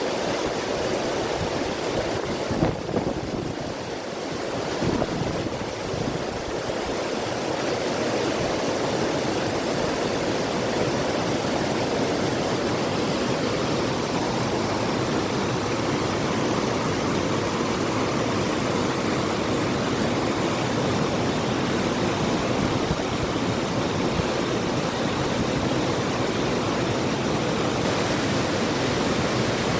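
River water rushing as a steady, even wash of noise, with a few brief louder splashes in the first several seconds.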